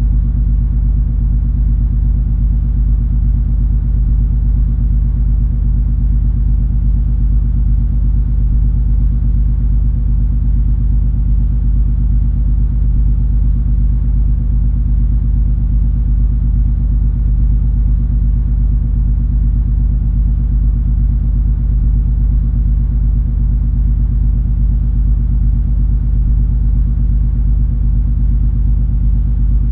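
Cruise ferry MS Color Magic underway: a steady, loud low rumble and hum of the ship's engines and hull, unchanging throughout.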